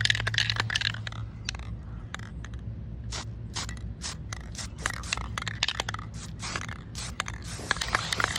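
Aerosol spray-paint can hissing through about the first second as a spot is touched up, followed by scattered clicks and scraping of handling.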